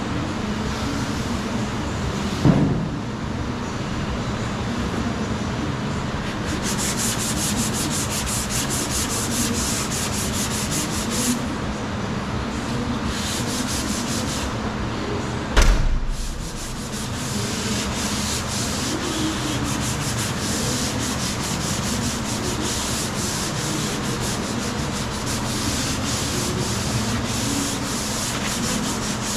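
Continuous sanding of Bondo body filler on a car's quarter panel: a steady scratching rasp over a low steady hum, with two short sharp knocks, about two and a half seconds in and about halfway through.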